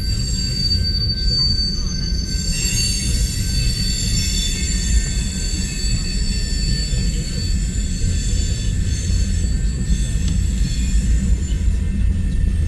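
Empty coal cars of a long freight train rolling past with a steady low rumble. A high steel-wheel squeal comes in about two and a half seconds in and fades out around ten seconds.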